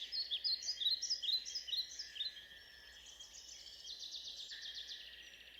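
Songbirds singing: a run of quick, varied chirping phrases in the first two seconds, then a faster repeated trill from about three seconds in, over a faint steady high tone.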